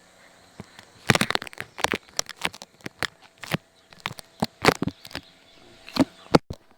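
A rapid, irregular run of sharp clicks and knocks, starting about a second in and coming in clusters, with the loudest strikes near the end.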